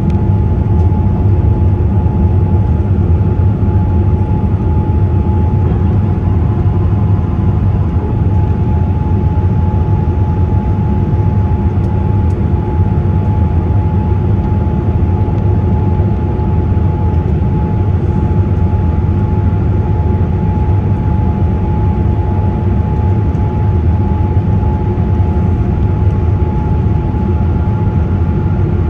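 Steady cabin noise of a Boeing 787-8 airliner: a loud, even low rumble of engines and airflow with a thin steady whine above it.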